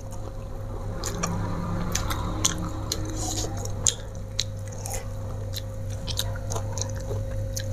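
A person chewing and biting raw leafy greens with sambal, picked up close: irregular wet mouth clicks and small crunches scattered through.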